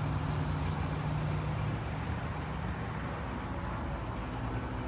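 Steady low hum of an idling engine, with a second, higher tone that drops away about two seconds in.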